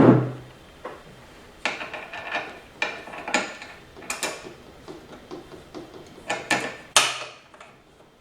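Metal parts of an automatic transmission being handled and fitted by hand: a loud knock at the start, then a series of irregular sharp clicks and clanks.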